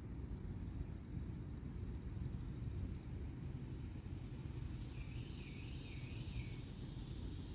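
Birds calling outdoors over a steady low rumble: a fast, high trill for about the first three seconds, then a short warbling call about five seconds in.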